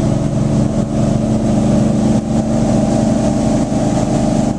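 Tour boat's engine running steadily and loudly under way at speed, with an even rushing noise over it.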